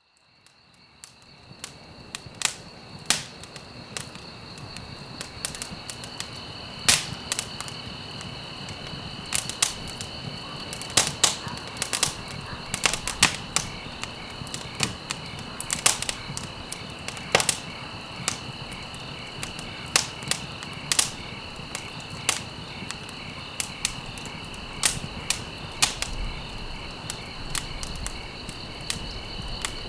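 Wood fire crackling in a fireplace: irregular sharp pops and snaps of varying loudness over a steady hiss, fading in over the first couple of seconds. A thin steady high tone runs underneath throughout.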